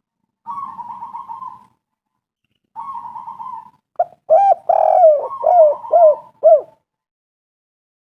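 Spotted dove cooing: two soft, purring trilled phrases, then a louder run of short, arched coos in quick succession from about halfway through.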